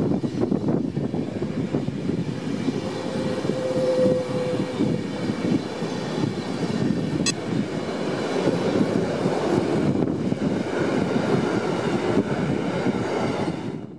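SBB intercity passenger coaches rolling past on the rails with a steady wheel-and-rail rumble. A brief squeal comes about four seconds in, and a single sharp click about seven seconds in.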